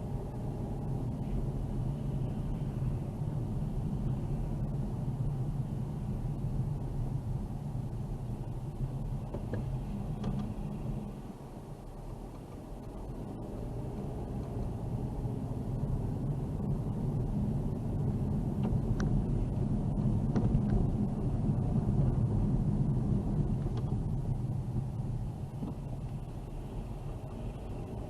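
A car driving on winter roads: steady low engine and tyre rumble. It eases off somewhat before halfway and is loudest about two-thirds of the way through.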